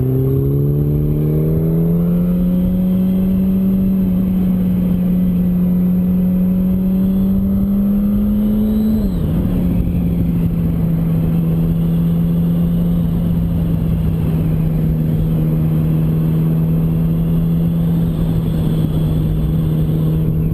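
Yamaha R1's inline-four engine heard on board while riding: the revs climb as it drives out of a tight corner and keep creeping up, then drop suddenly about nine seconds in with an upshift, and the engine holds a steady pitch after that, under a constant rush of wind.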